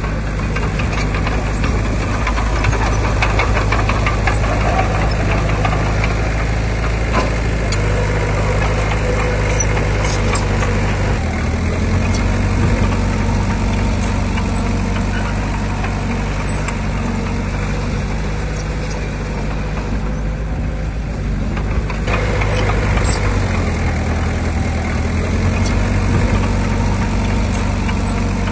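Diesel engine of heavy earthmoving machinery running under load, its note changing about a third of the way in and again after about 22 seconds, with scattered clanks and rattles of metal.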